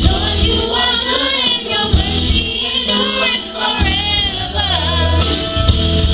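Live church worship music: voices singing a gospel song over a band with a heavy, pulsing bass.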